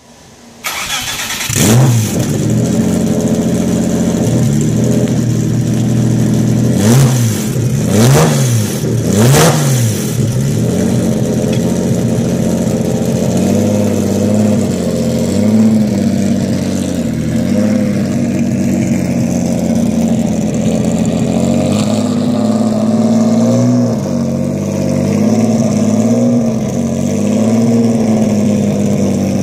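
Porsche 917/10 replica's engine starting up, blipped in three quick revs, then running at a steady idle set a little high, its pitch rising and falling gently.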